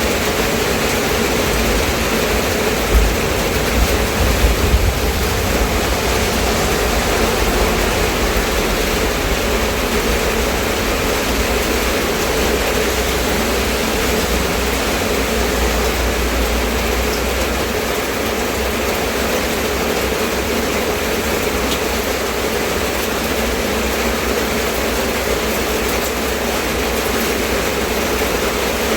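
Steady rain falling, a dense even hiss with a low rumble underneath and a few brief low thumps about three to five seconds in.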